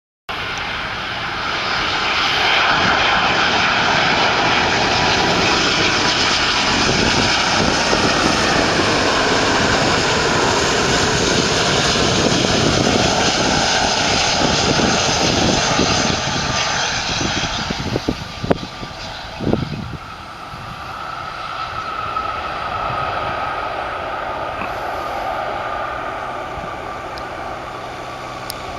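Boeing 777-200ER jet engines, loud as the airliner passes close by. The noise eases after about sixteen seconds, with two brief thumps, and gives way to a steadier whine with a low hum near the end.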